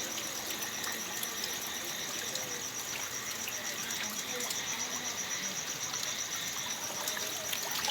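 Crickets trilling steadily, a high, rapidly pulsing note that never breaks, over a constant hiss of background noise.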